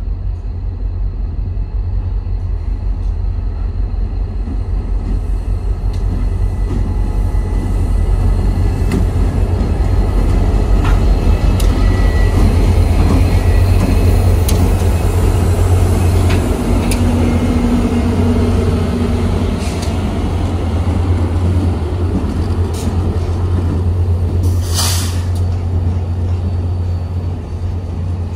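Passenger train led by EMD F40PH diesel locomotives passing, a heavy steady low rumble with scattered sharp clicks from the wheels and rail. A short burst of air hiss comes near the end.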